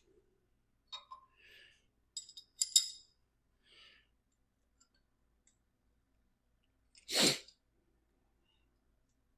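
A few light metallic clinks and soft handling rustles of small metal parts, then one loud sneeze about seven seconds in.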